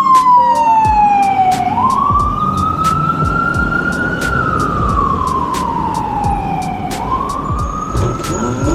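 Emergency vehicle siren wailing: its pitch falls slowly, sweeps back up, and falls again, over steady wind and road noise from riding. A second rising tone begins near the end.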